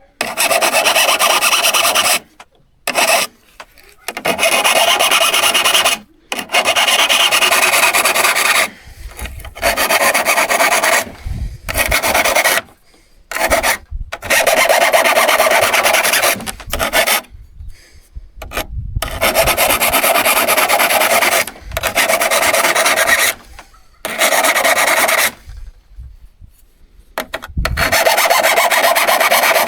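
Rasping, rubbing strokes of a hand tool worked back and forth, in loud runs of one to a few seconds with short pauses between.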